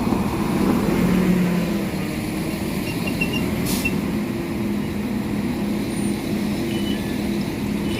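Northern Ireland Railways 4000 class diesel multiple unit running at the platform, its engines humming steadily. A short hiss of air comes about four seconds in.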